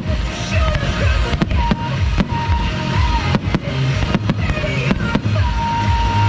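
Aerial fireworks going off in rapid succession, with many sharp bangs and crackles, over loud music with a pulsing bass beat.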